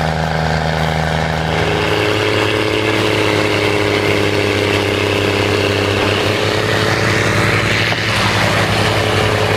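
A heavy machine's engine running steadily. Its pitch changes about a second and a half in, and a rising hiss builds near the end.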